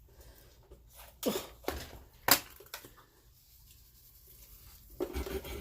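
A few sharp knocks and clicks of kitchen items being handled, the loudest a little over two seconds in, with a short burst of handling noise near the end.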